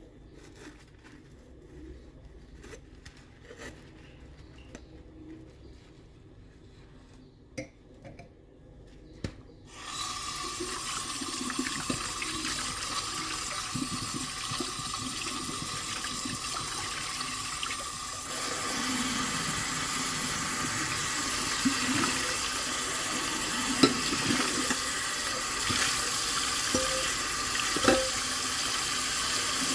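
Kitchen sink tap turned on about a third of the way in, after a quiet stretch with a few small clicks, then water running steadily into the sink. The flow gets fuller about halfway through, and a few sharp clinks sound over it near the end.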